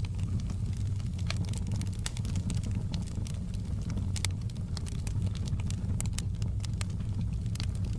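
Log fire crackling in a fireplace, with frequent irregular sharp pops over a steady low rumble.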